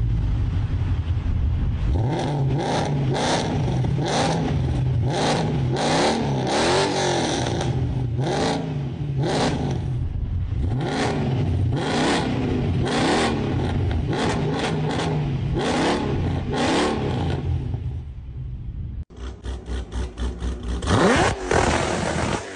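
V8 engine revved again and again in quick blips over its idle, each rev rising and falling in pitch. About nineteen seconds in the sound changes abruptly, and one longer rising rev follows near the end.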